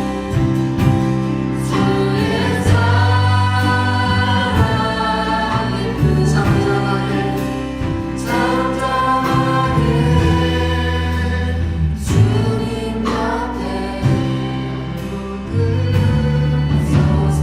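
Contemporary worship song played live by a church praise band: group vocals sung over sustained bass and keyboard notes, with drum hits keeping the beat.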